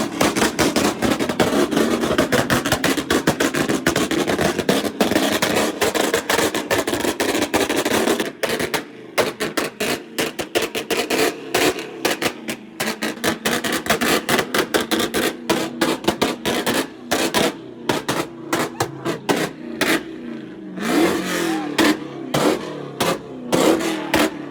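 Car engines revving with loud exhaust noise. The noise runs unbroken for about the first eight seconds, then comes in short choppy bursts, with some rising and falling revs near the end.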